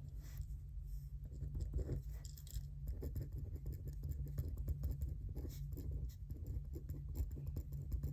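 Pen or pencil writing on paper: quick scratchy strokes, near continuous from about a second in, over a steady low hum.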